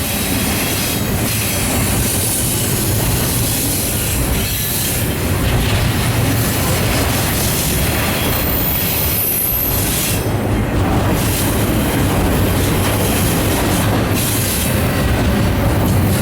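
Norfolk Southern intermodal train rolling past, its cars' wheels running steadily on the rails with some clatter. A thin high wheel squeal sounds briefly about halfway through.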